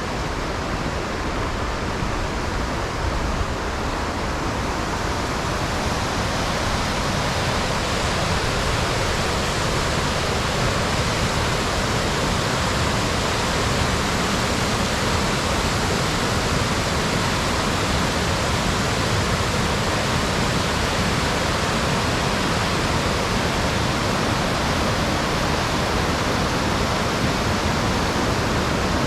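Waterfall rushing: a steady, unbroken wash of falling water, a little fuller after the first few seconds.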